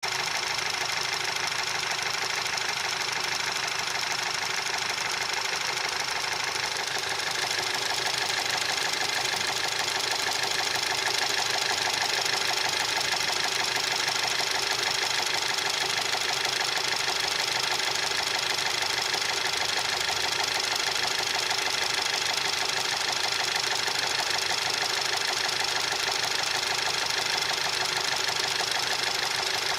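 TSI turbocharged petrol engine running steadily with a fast, continuous knocking from the engine, the knock it is being recorded for. It gets slightly louder about seven seconds in.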